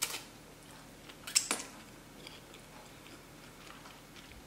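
A person chewing a mouthful of wide rice noodles: a few soft mouth clicks and smacks, the sharpest about a second and a half in, with quiet chewing between them.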